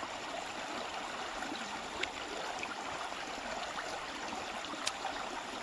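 River water flowing and gurgling steadily. Two faint clicks sound about two and five seconds in.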